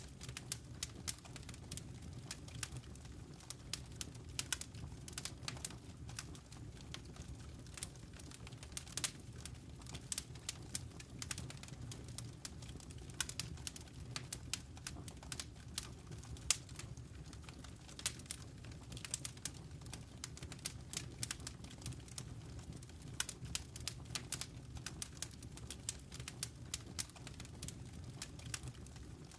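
Wood fire in a fireplace crackling: many irregular sharp pops and snaps over a low steady rumble.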